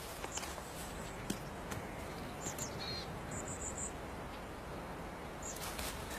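Quiet outdoor ambience: a steady soft hiss with a few short, high bird chirps, including a quick run of four notes about halfway through.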